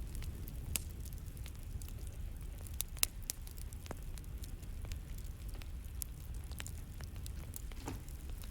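Campfire crackling: scattered sharp pops and snaps over a low steady rumble, the loudest pop about three seconds in.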